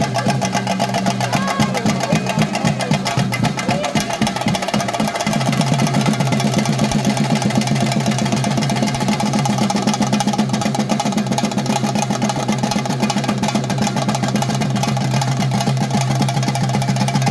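Theyyam drumming: chenda drums played in fast, continuous strokes over a steady sustained tone, which drops lower about five seconds in.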